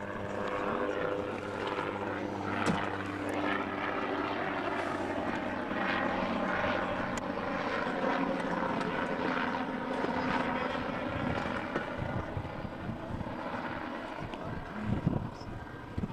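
An engine running with a steady hum that fades away about six seconds in, leaving a rushing noise with low rumbles.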